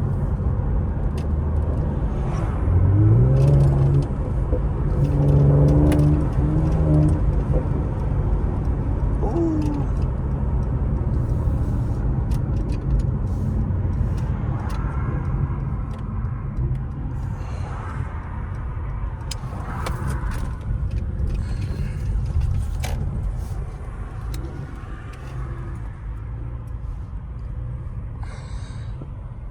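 Turbocharged vehicle engine and road noise while driving. The engine's pitch rises in the first few seconds and holds, then settles into a steady low rumble as the vehicle cruises.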